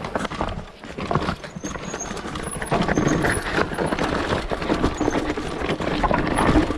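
Mountain bike rattling and clattering over a rocky, rooty downhill trail, a dense run of irregular knocks from the frame and chain, with wind rumbling on the microphone.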